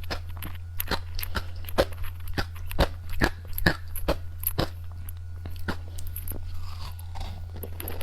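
Close-miked chewing of crunchy candy: irregular sharp crunches, several a second at first and sparser toward the end, over a steady low hum.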